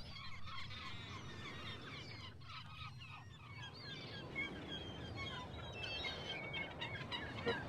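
A flock of birds calling, many short overlapping calls over a low steady background noise.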